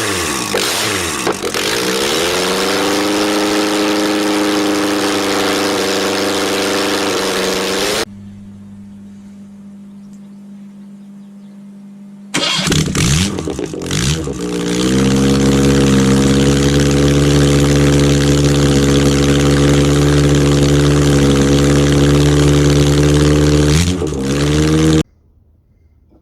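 An engine starts and settles into a steady idle, then stops suddenly. After a few seconds of a quieter low hum, it starts again, runs steadily, and is given a short blip of revs near the end before cutting off abruptly.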